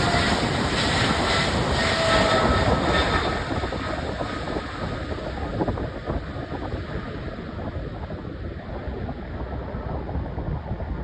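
Jet noise from a Boeing 777-300ER's two GE90-115B turbofans at takeoff power, with a few faint whining tones in the first seconds. It grows quieter and duller from about four seconds in as the airliner climbs away.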